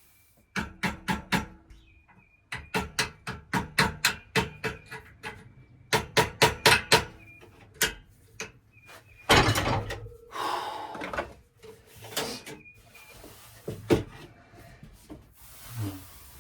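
Quick runs of sharp knocks or taps, about four to five a second, in several bursts, with a louder scraping rattle about nine seconds in and a single knock near the end.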